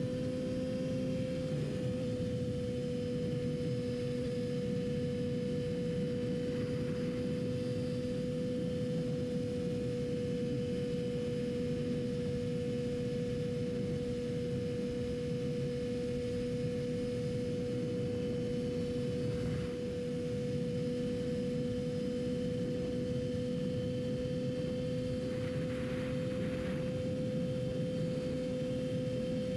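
Yamaha R6 inline-four engine running at steady, constant revs while the bike cruises, a single held tone over steady wind and road rush.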